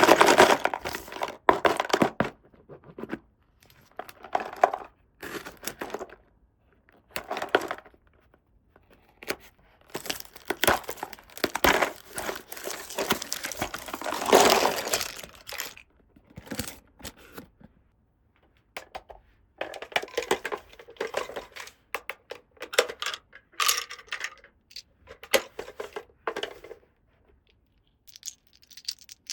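Toy packaging opened by hand: plastic wrap and tape tearing and crinkling in irregular bursts with short pauses between, mixed with light clicks.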